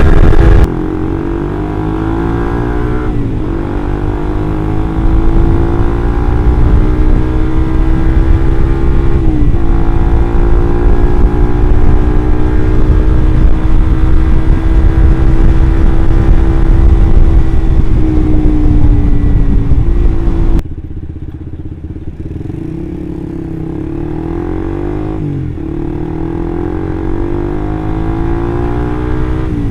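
Suzuki GSX-R150's single-cylinder engine through an R9 Mugello aftermarket exhaust, running under way. The pitch climbs and then drops sharply at gear changes a few seconds in, around nine seconds and near eighteen seconds. About two-thirds of the way through, the sound abruptly gets quieter and duller.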